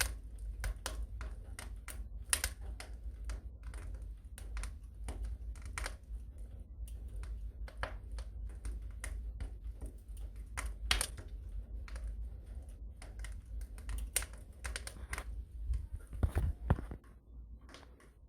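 Wood fire crackling in a fireplace: irregular sharp snaps and pops, a few louder than the rest, over a low steady rumble.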